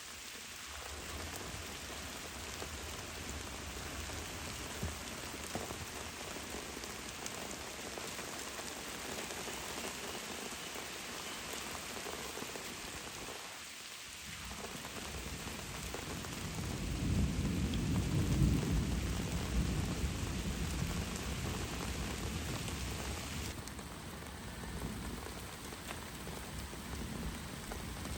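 Steady rain falling. About two-thirds of the way through, a low rumble of thunder swells up, peaks and fades over several seconds.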